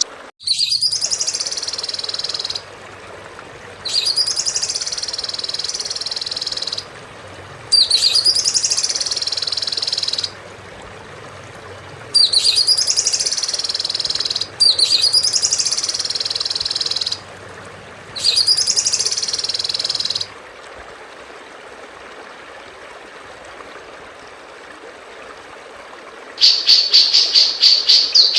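A songbird call repeated six times, each a quick flourish into a buzzy note held about two seconds. Near the end comes a fast run of sharp, rapid chirps.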